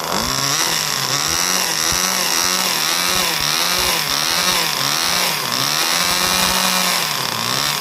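Small two-stroke engine of a vintage Compagnucci RC car being revved up and down over and over, its pitch rising and falling in quick repeated swells over a high whine. The owner judges it to be running rich.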